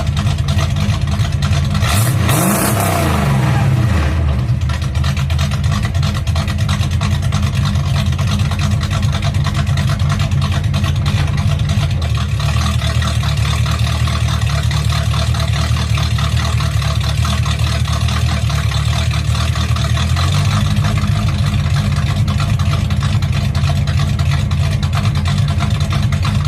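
Mildly cammed Chevrolet 305 small-block V8 with shorty headers and an X-pipe exhaust, revved once about two seconds in, then idling steadily.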